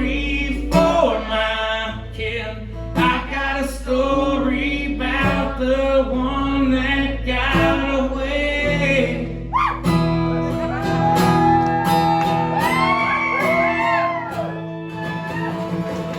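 Live country-rock band with a male singer finishing the last chorus of a song, then the band holding out the closing chords after the singing stops, about ten seconds in.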